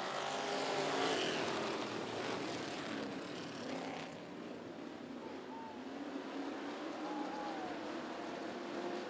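A pack of dirt track race cars running hard at the green flag, the engines swelling about a second in and then holding steady.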